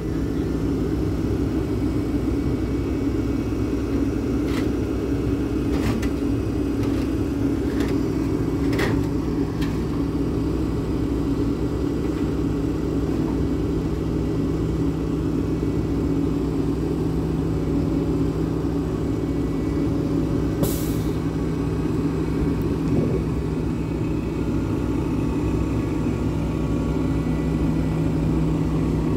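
Heavy diesel engine of a road-rail vehicle running steadily at a low, even drone, with a few sharp clicks in the first third and a short hiss of air about two-thirds of the way through.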